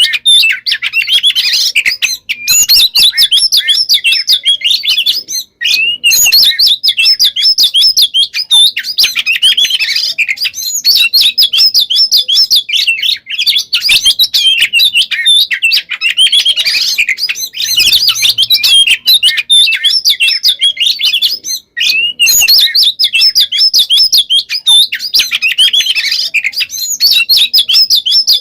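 Oriental magpie-robin (kacer) singing loudly and almost without pause: a dense, rapid stream of whistled notes, rolling trills and mixed-in phrases, broken only by two brief gaps, about five and a half seconds in and about twenty-two seconds in.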